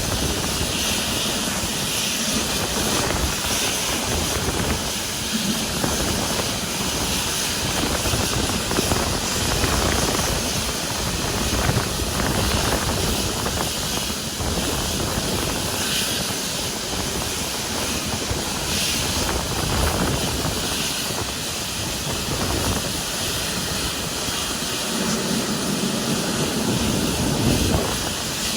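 Jet airliner engines running, a steady rushing hiss with no clear pitch, swelling slightly near the end.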